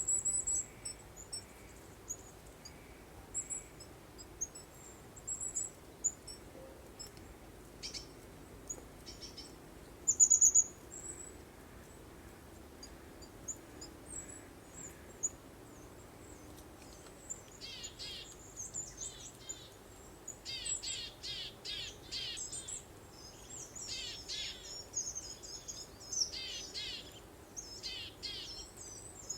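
Songbirds chirping in high, short notes, sparse at first with a loud burst about ten seconds in, then busier with quick, rapidly repeated notes from about halfway. A faint steady breeze hiss lies beneath.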